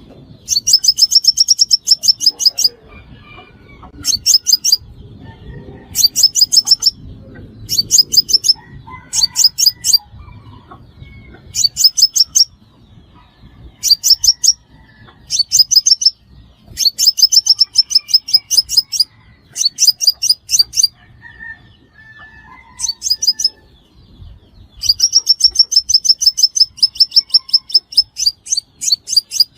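Sunbird calling: loud bursts of rapid, high chipping notes, each run lasting from half a second to a couple of seconds, repeated every second or two.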